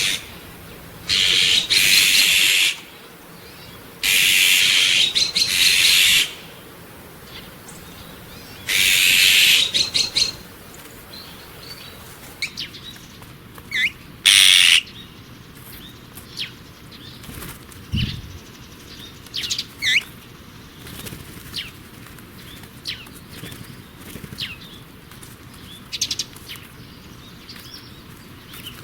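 Wild bird calling: several harsh, noisy screeches about a second long each in the first ten seconds and one more shortly after, then a scatter of short, sharp calls.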